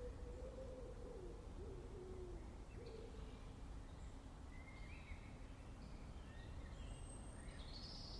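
Faint low hooting bird calls, a few wavering notes in the first three seconds, followed by short high songbird chirps over the second half, over a steady low background rumble.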